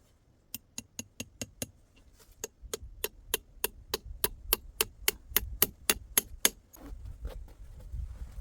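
A rapid, even series of sharp strikes, like hammering, about four a second, with a short break after the first few and stopping about six and a half seconds in. A low rumble follows.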